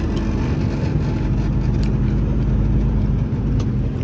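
Semi truck's diesel engine running steadily while driving, a continuous low drone.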